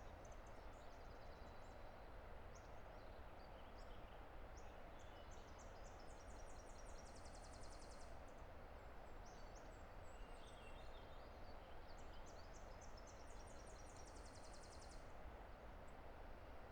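Faint steady roar of a distant river, with small birds singing high, rapid trills over it, one long trill about six seconds in and another near the end, and scattered short chirps between.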